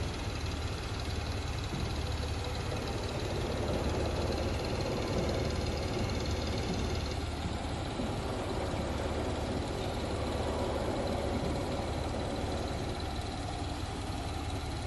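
A diesel engine running steadily with a low rumble, as from a heavy demolition machine working on site.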